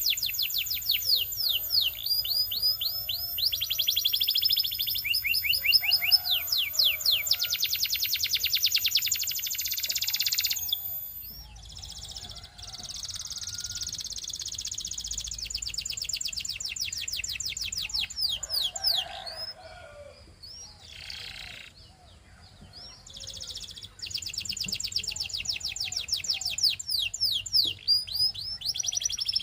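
Belgian canary singing in long, rapid trills of fast-repeated notes, with short pauses between phrases.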